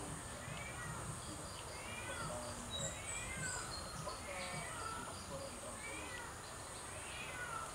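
Birds chirping over and over in short rising-and-falling calls, with a steady high insect drone beneath them.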